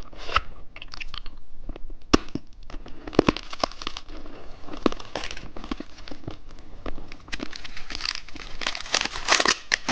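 Plastic candy wrapper crinkling and tearing in irregular bursts with scattered sharp clicks as small sweets are unwrapped by hand, getting busier near the end.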